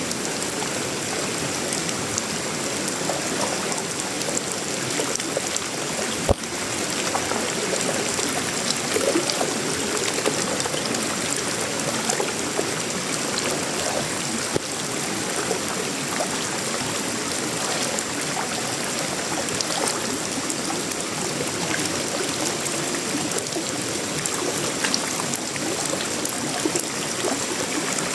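Steady tropical rain falling on sheet-metal roofing, wood and leaves, an even rushing hiss of water. A single sharp click about six seconds in.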